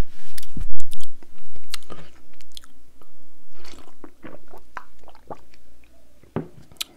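Close-miked mouth sounds of a man eating: chewing, with many short wet clicks and smacks, and sips and swallows from a paper cup partway through.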